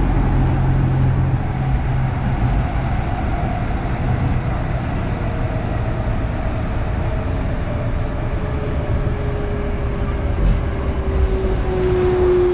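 Kintetsu 3200 series electric train heard from inside motor car Mo 3205: a steady wheel-and-rail rumble, with the early Mitsubishi GTO VVVF inverter whining as a single tone that slides slowly down in pitch and grows louder over the last few seconds.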